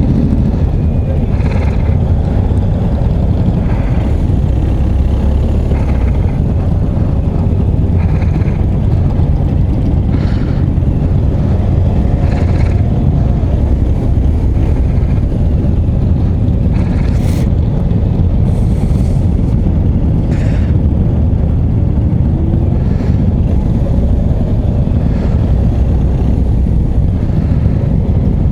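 Motorcycle being ridden: a steady engine drone mixed with heavy wind rumble on the microphone, with no pauses.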